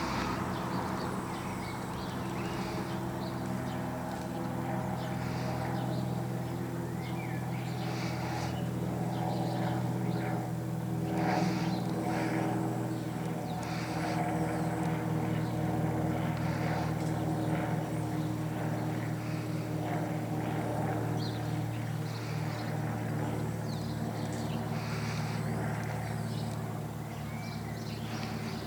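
Cessna 172 single-engine propeller plane droning steadily overhead, its piston engine and propeller giving an even hum, with short high chirps scattered above it.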